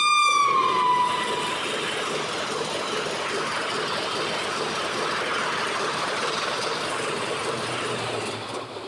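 Horn of an express train's locomotive, its pitch dropping as it passes about a second in, then the steady rushing rumble of the coaches going by at speed, which fades near the end.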